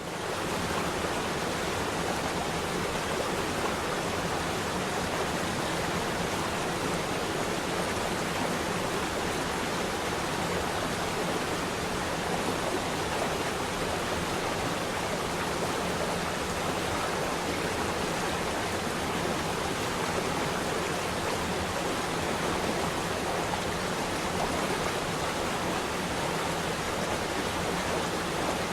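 Flowing water rushing steadily, an even, unchanging wash of sound.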